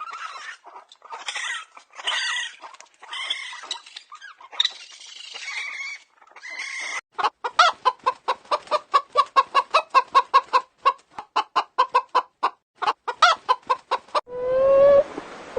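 Chickens clucking and squawking in irregular calls, then a fast run of clucks, about five a second, for several seconds. Near the end a different, whining call takes over.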